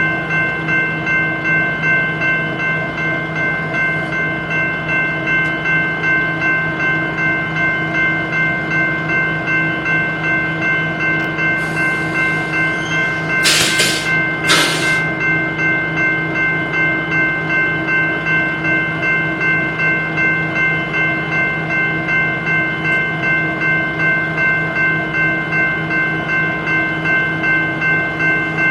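Stopped BNSF diesel locomotive idling: a steady hum and whine with a regular pulse, and two short loud hisses about halfway through.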